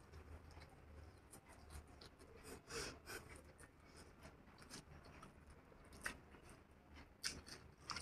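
Faint sounds of a person chewing a mouthful of hakka noodles, with scattered short mouth clicks, the sharpest ones in the last couple of seconds.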